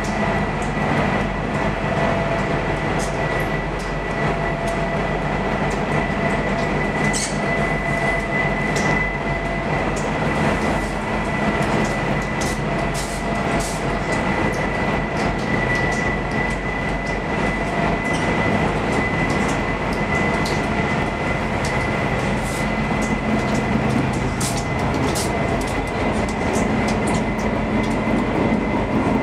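Aizu Railway AT-351 diesel railcar running along the line, heard from on board: a steady rumble of wheels on rail with a thin high whine held throughout and scattered light clicks.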